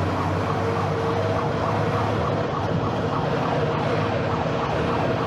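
A hailstorm: hail pelting down as a loud, steady rush of noise. Over it, a pitched electronic alarm tone repeats several times a second.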